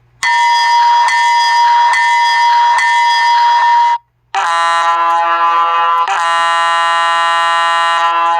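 Recorded diesel locomotive sound effects for a Lionel model train. First a bell rings, struck a little under once a second. After a short gap comes a long, multi-note air horn blast, which sounds again more strongly about six seconds in.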